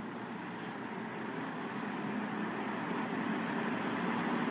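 1971 Lakewood Spring-Aire box fan running on medium speed, the rush of air and motor hum growing steadily louder as the blade comes up to speed.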